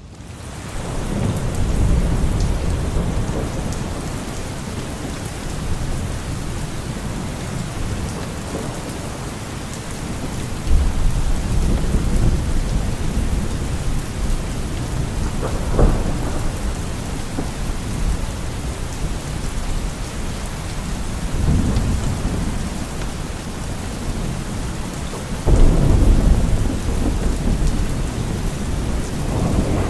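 Steady rain with low rolling thunder rumbling several times, the loudest rumble starting suddenly a few seconds before the end.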